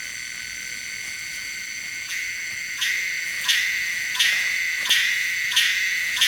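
Insects chirping in a steady high chorus; from about three seconds in, a regular pulse joins at roughly one beat every 0.7 seconds.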